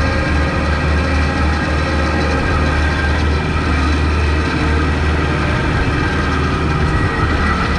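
Kubota MX5200 tractor's diesel engine running steadily with a low hum, with a slight dip near the end, while the tractor plows snow.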